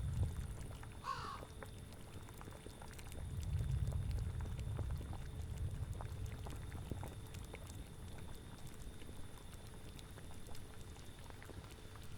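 Low, gusting autumn wind and a bubbling cauldron, with a single crow caw about a second in.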